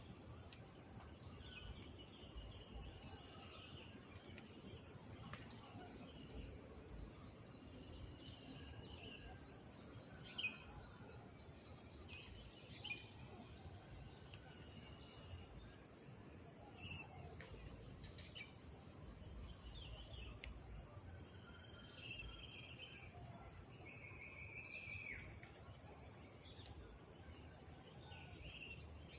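Faint village morning ambience: scattered bird chirps and short whistled calls over a steady high insect drone and low background noise.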